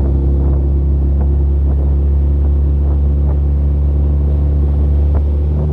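Tohatsu 20 hp EFI four-stroke outboard motor running steadily under throttle, pushing a small boat up onto the plane.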